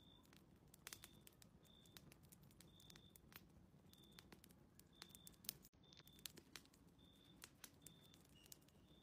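Faint fireplace crackling: scattered small pops and clicks, with a short high tone repeating about once a second over it.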